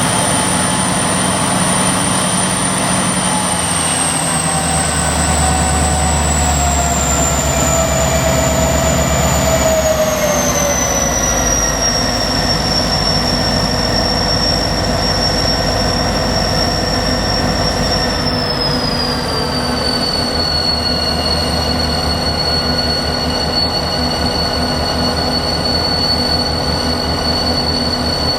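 Victorian Railways C class diesel-electric locomotive C501 with its EMD diesel engine running hard. Over the engine beat comes a high turbocharger whine that falls in three steps as the throttle is eased back notch by notch.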